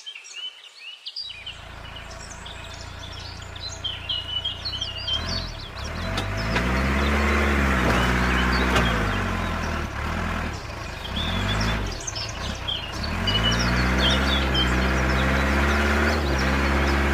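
A motor running with a steady low hum, its pitch rising and falling several times, with birds chirping throughout.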